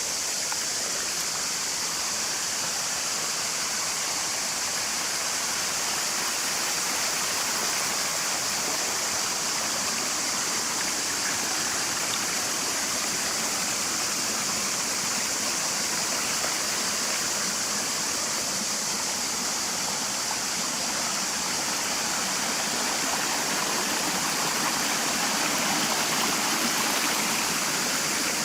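Water of the Platanistos stream and waterfall rushing steadily, with a constant high-pitched hiss above it.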